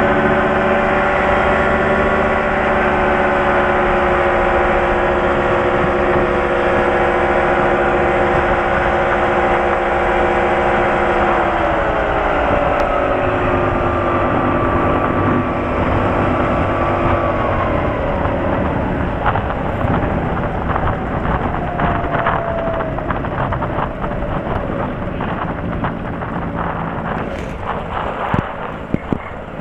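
Light airplane's piston engine and propeller droning steadily in the cockpit. About twelve seconds in, the pitch drops as power is pulled back, and it sinks lower again between about 17 and 23 seconds. Scattered knocks and crackle come through toward the end.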